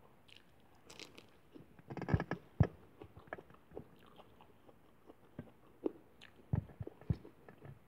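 Close-up crunching of a crisp lettuce leaf being bitten and chewed: a run of sharp crackles about two seconds in, and more near the end.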